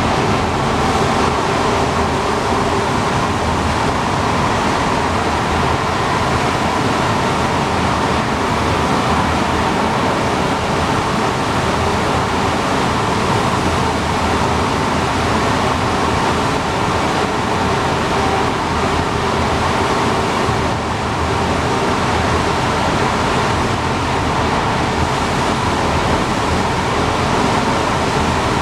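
Alstom NS-93 rubber-tyred metro train running at a steady speed: an even rushing noise with faint steady tones in it.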